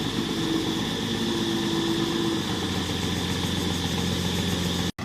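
Heavy diesel engine running, its note dropping to a lower, steady pitch about halfway through, with a steady high whine alongside. The sound cuts off abruptly just before the end.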